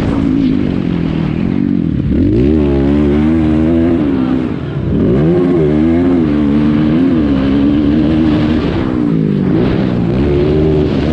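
Motocross dirt bike engine revving hard, its pitch climbing and falling again and again as the throttle opens and closes, with a brief dip about four and a half seconds in.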